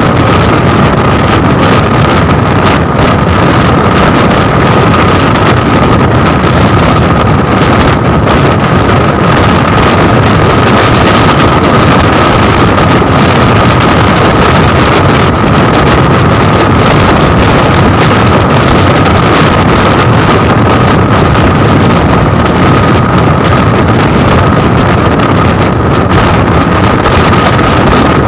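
Train running at speed with heavy wind on the microphone: a loud, steady rush of running and wind noise with a steady high whine over it.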